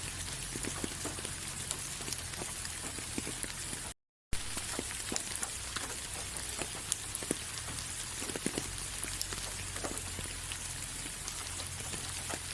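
Steady rain falling on a surface: an even hiss with many individual drops ticking. About four seconds in, the sound cuts out to silence for a fraction of a second, then carries on.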